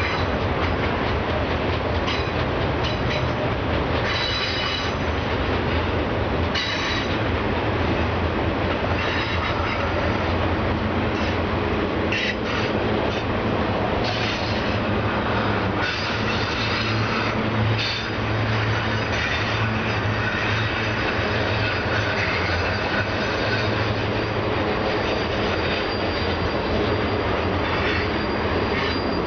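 Union Pacific freight train of autorack cars rolling past on a downgrade: a steady rumble of wheels on rail, with high-pitched wheel squeal coming and going.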